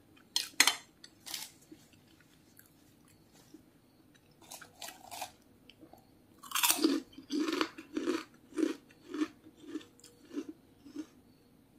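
Someone biting and chewing a crisp kerupuk (Indonesian cracker). There are a few soft chewing clicks at first. About six and a half seconds in comes a loud crunching bite, then steady crunching chews about twice a second.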